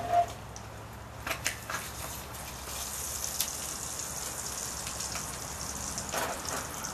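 Eggs and grease sizzling in a cast-iron skillet, a steady high hiss that swells about halfway through. A few clicks of a metal spatula against the pan come in the first two seconds as the eggs are lifted out.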